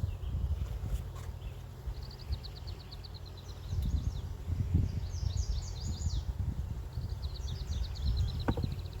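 A songbird singing repeated phrases of quick high trilled notes, in three runs, over a low rumble.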